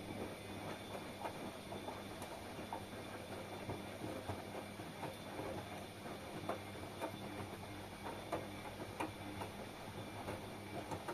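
Washing machine running mid-wash: a steady low motor hum under many irregular small clicks and knocks as the drum turns the load.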